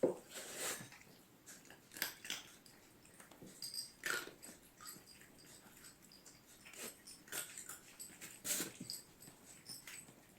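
Short animal sounds coming irregularly, every second or two, a few of them falling in pitch.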